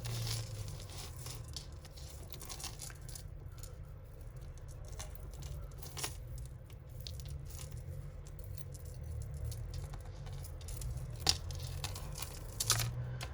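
Costume jewellery being handled and sorted: scattered small clicks and clinks of chains and beads with some rustling, over a steady low hum.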